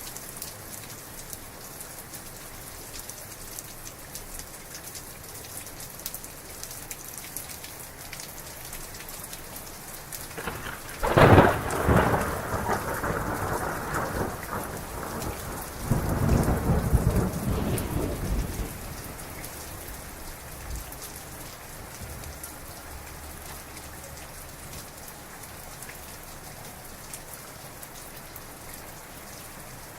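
Heavy rain falling steadily. About eleven seconds in a sudden, loud clap of thunder breaks and rumbles on, a second heavy roll of thunder follows a few seconds later, and then it dies away, leaving the rain.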